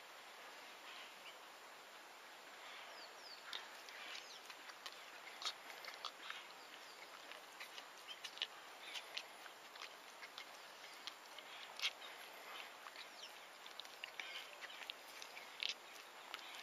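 Faint bird chirping: many short, high calls scattered irregularly, with occasional light clicks among them.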